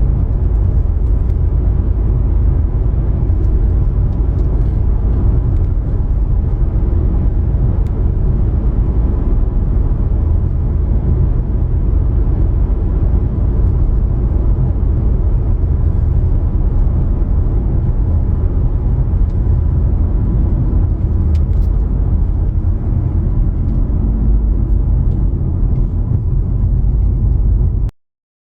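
A steady, loud, low rumble of a vehicle on the move, which cuts off abruptly near the end.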